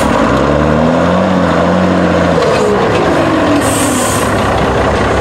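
Iveco trial truck's diesel engine revving hard under load, its pitch climbing through the first second and holding, then rising again about halfway through. A short hiss of air comes a little after the middle.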